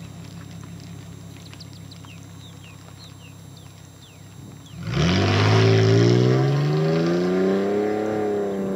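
2005 Ford Mustang's exhaust through divorced dual Flowmaster 40 Series mufflers and dual cutouts: the engine idles steadily, then about five seconds in it is revved up sharply, the pitch climbing slowly and held, before starting to drop back near the end.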